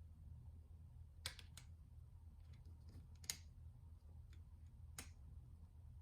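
A few faint, sharp clicks, the loudest a little after one second and a little after three seconds, over a steady low background hum.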